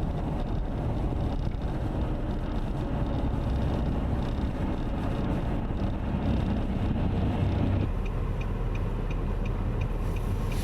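Blizzard wind rumbling steadily over the microphone in a dense low roar. About eight seconds in the sound changes abruptly, and faint regular ticking at about three a second comes in.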